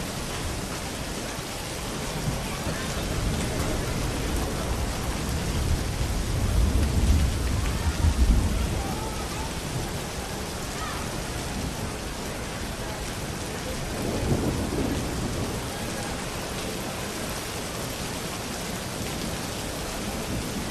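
Steady rain with rolling thunder: a long deep rumble builds to its loudest about eight seconds in and fades away, and a shorter, softer rumble follows about fourteen seconds in.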